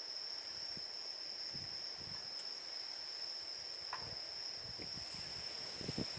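Insects chirring in a steady, unbroken high-pitched drone, with a few soft low thuds, the loudest near the end.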